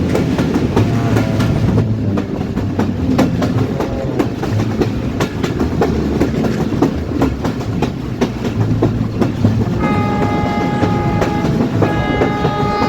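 A train running past, its wheels clicking rapidly over the rail joints above a low rumble. About ten seconds in, the train's horn sounds, a blast of several notes at once, breaks off briefly, then sounds again.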